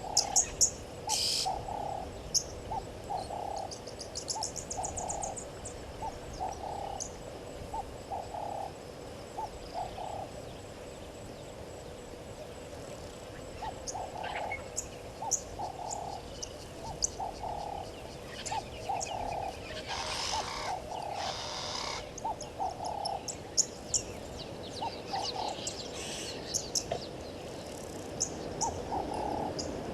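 Outdoor wildlife calling: runs of short, low repeated calls about two a second, pausing about ten seconds in and then resuming, with scattered high bird chirps above them. Two short hissing bursts come about twenty seconds in.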